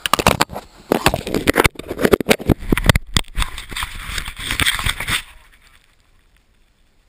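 Handling noise on the action camera: irregular scraping, rubbing and knocking against its body and microphone, which stops about five seconds in.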